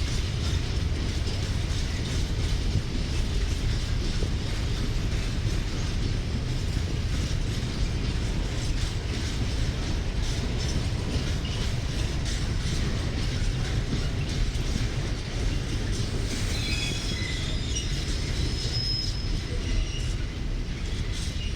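Freight train passing through a station, its wagons rumbling steadily over the rails with a light clatter of wheels. Thin high wheel squeal comes and goes late on.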